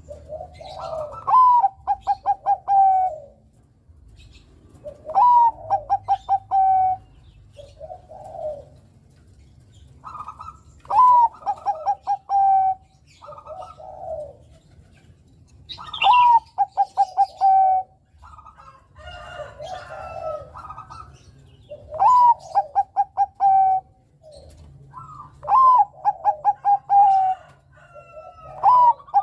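Bangkok-strain zebra dove (perkutut) cooing: the same phrase about seven times, each opening with a rising note, then a quick run of short notes and ending on a longer held note, with softer coos between phrases.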